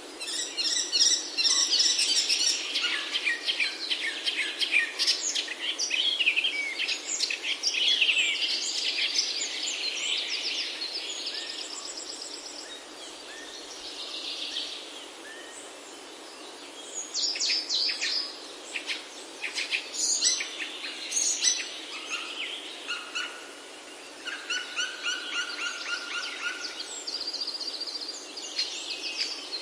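Several songbirds singing, with rapid chirps and trills over a steady soft hiss of background ambience; a quieter lull comes about midway before the singing picks up again.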